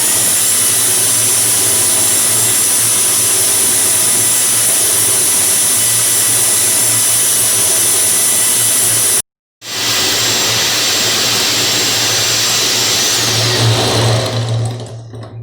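Electric hand beater running steadily, whipping instant coffee, sugar and water into a fluffy cappuccino mixture. It cuts out abruptly for a moment about nine seconds in, runs again, then winds down with a falling pitch near the end.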